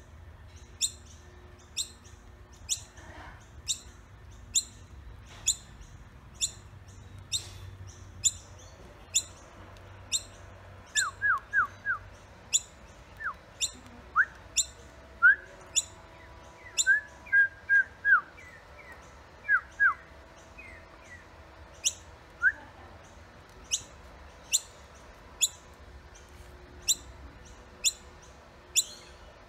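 Baby bird peeping: sharp, high single chirps repeated about once a second. In the middle comes a run of lower, quicker chirps in small clusters.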